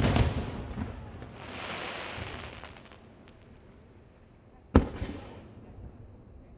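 Aerial firework shells bursting. A sharp bang at the start rolls away, followed for about a second and a half by a hissing crackle with a few small pops. A second bang comes a little under five seconds in and rolls away in turn.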